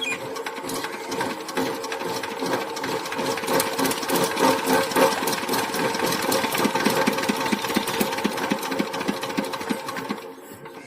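Diesel engine running with a fast, even clatter, cutting off abruptly about ten seconds in.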